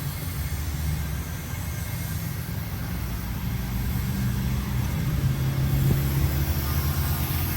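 A motor running steadily with a low rumble, a little louder in the second half.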